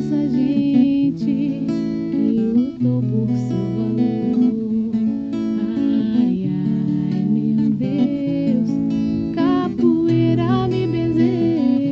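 Acoustic guitar (violão) playing a capoeira ladainha, with plucked and strummed chords changing every second or so.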